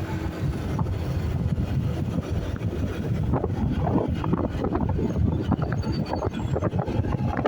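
Wind buffeting and rumbling on the microphone of a moving motorcycle, with engine and road noise underneath.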